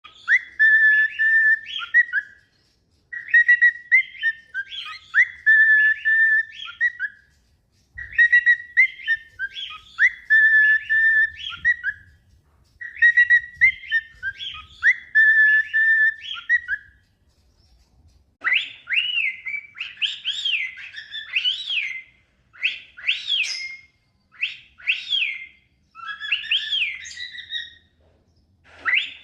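Cockatiels whistling: the same short whistled tune phrase repeated about four times with short pauses, then, about two-thirds of the way through, a run of shorter separate whistles that rise and fall in pitch.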